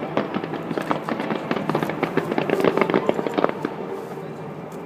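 Fireworks going off in a rapid run of pops and crackles, densest in the middle and thinning out about three and a half seconds in.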